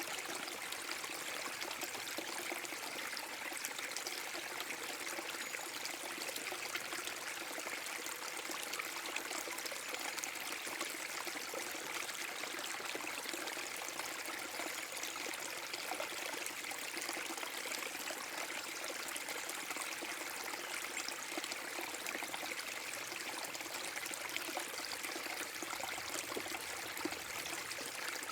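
A small forest-brook waterfall: water splashing and running steadily over rocks, an even, unbroken rush of water.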